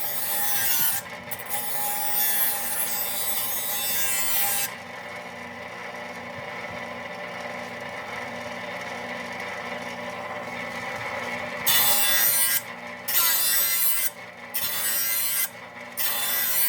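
A power grinder running steadily, its wheel worked against the steel cutting edge of a zero-turn mower blade to sharpen it. One long grinding pass runs for about four and a half seconds. Near the end come four shorter passes of about a second each, with the motor humming between them.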